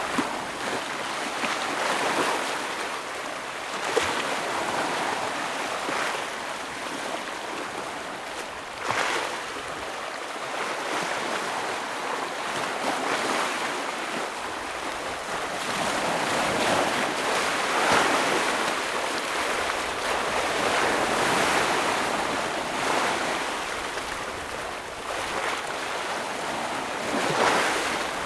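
Ocean waves washing and splashing against rocks on the shore, a continuous surf hiss that swells and eases every few seconds, with sharper splashes as waves hit.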